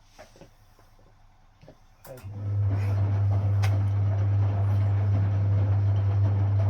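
Induction motor of a vintage Frigidaire Super Deluxe Automatic 50 front-loading washing machine starting about two seconds in with a loud deep hum, the drum tumbling the wet laundry with a steady swish of water. Before it starts, only a few faint clicks.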